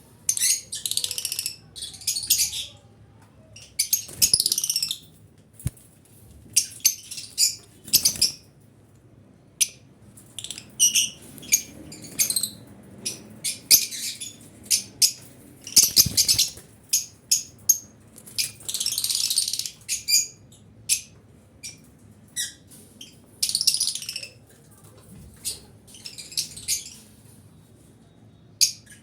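Lovebirds calling: repeated shrill chirps and harsh squawks in short bursts, with several birds overlapping at times, and a few knocks in between.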